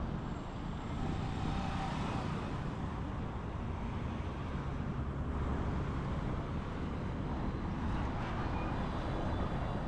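Street traffic: a steady, low hum of road noise from passing vehicles.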